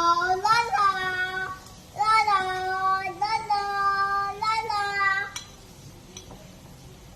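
A young child singing in a high voice, holding long steady notes in two phrases with a short break between them. The singing stops about five and a half seconds in.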